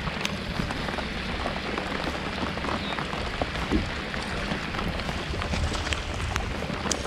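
Rain falling on the lake and the boat: a steady patter with scattered sharp drop ticks over a low rumble.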